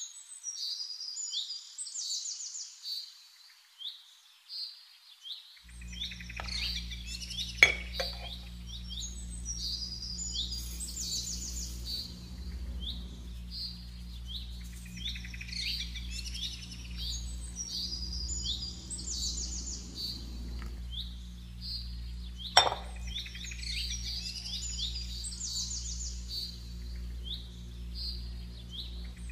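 Birdsong of chirps with a fast trill that recurs about every eight seconds, over a low steady hum from about six seconds in. Two sharp clicks, about eight and about twenty-two seconds in.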